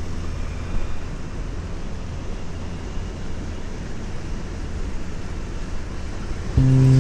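Steady rumble of wind and road noise from riding in the rain, with no clear engine tone.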